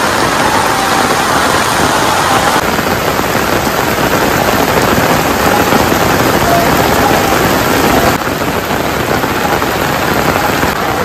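Heavy rain pouring onto wet paved ground, a loud steady hiss of falling water. Its tone shifts abruptly twice, about two and a half and eight seconds in.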